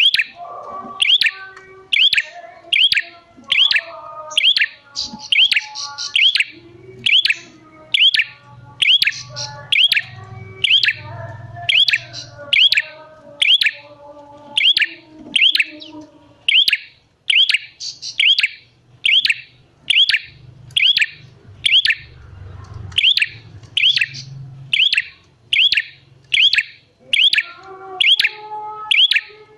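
Red-headed prenjak calling: a sharp, high chirp repeated evenly about one and a half times a second, with softer, lower twittering notes in between.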